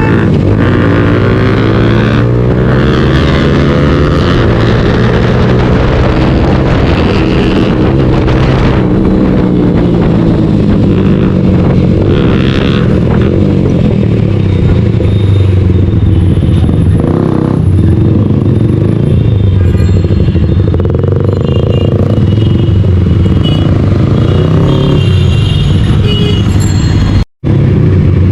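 Suzuki motorcycle engine running hard on the move, its pitch rising and falling with the throttle. The sound cuts out for an instant near the end.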